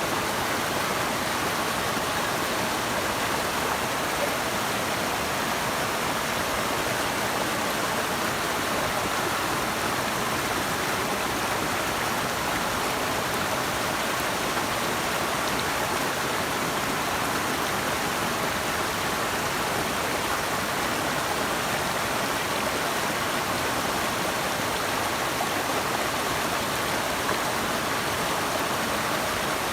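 Running water of a stream or waterfall, a steady rushing with no change.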